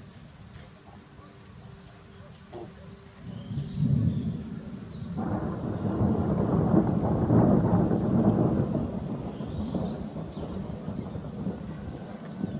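Distant thunder rolling before a rainstorm: a low rumble that swells about four seconds in, is loudest in the middle and slowly dies away. A steady high chirping, about four pulses a second, runs beneath it.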